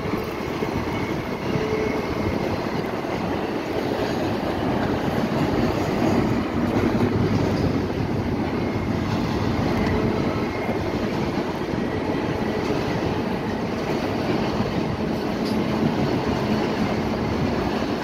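Double-stack intermodal container cars rolling past on steel rails: a steady rumble of wheels on track, with a faint high wheel squeal now and then.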